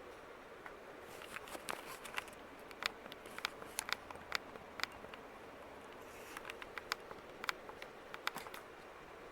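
Harbor Breeze Southern Breeze ceiling fan running on high speed, a steady faint whir, with many irregular light ticks and clinks over it, clustered from about a second in and again from about six seconds in.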